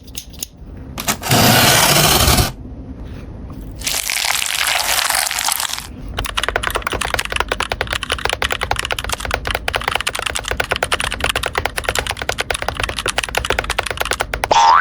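Toy packaging being opened and handled: two loud rushing bursts of noise, then a long stretch of fast, dense crackling and clicking like plastic wrap being crinkled and peeled.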